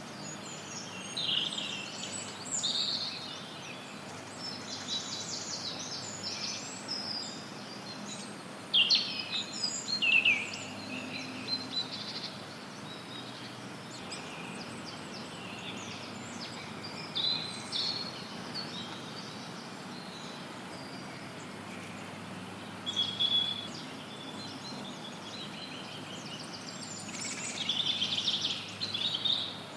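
Forest songbirds singing and chirping in short scattered phrases over a steady hiss of added white noise.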